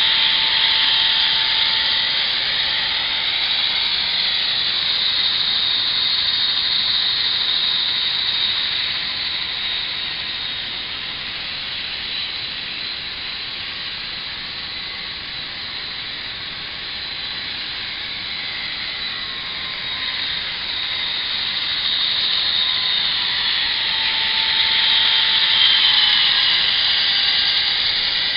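The sound decoder of an Athearn SD40R model locomotive plays a recorded turbocharged EMD diesel through its small speaker, with a high whine that shifts in pitch. The sound eases off through the middle and builds again near the end.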